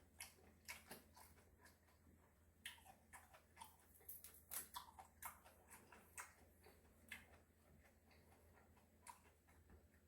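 Faint eating sounds: soft, irregular clicks of chewing and mouth noises, busiest in the middle few seconds.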